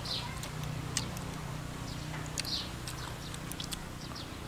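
Outdoor ambience: a bird gives two short high chirps, one at the start and one about two and a half seconds in, over a steady low hum, with scattered small clicks.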